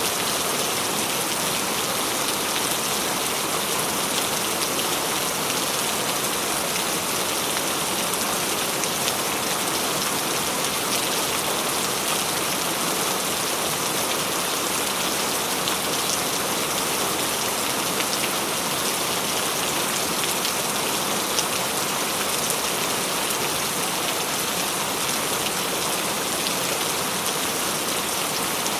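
Steady rain falling, a dense even hiss of drops on surfaces with fine scattered drop ticks and no change in intensity.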